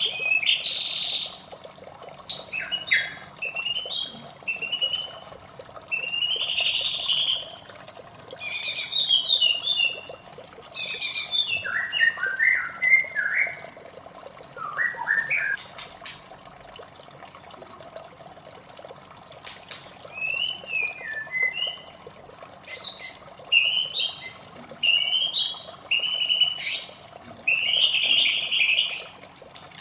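White-rumped shama singing: bouts of varied whistled and chattering phrases, broken by short pauses and a longer pause midway, over a steady background of running water.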